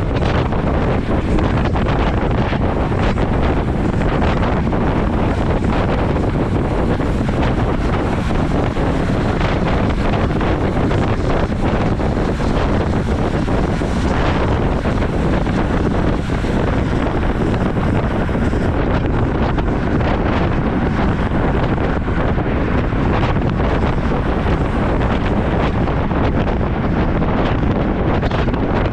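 Wind rushing steadily over the microphone of a camera carried on a moving road bike, a constant buffeting roar heaviest in the low range.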